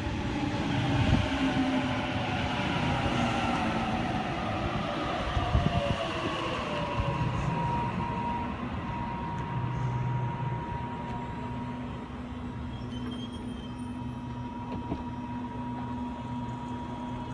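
Sydney Trains Waratah (A set) electric train slowing to a stop at the platform, its traction motor whine falling in pitch over the first several seconds. It then stands at the platform with a steady hum.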